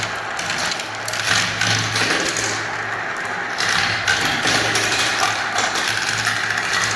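Many marbles rolling and clattering down plastic spiral ramps, a dense stream of small clicks over a steady low hum.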